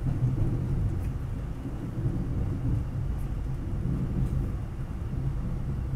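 Steady low rumble of a moving SEPTA Regional Rail push-pull train, heard from inside the passenger coach, with a few faint ticks.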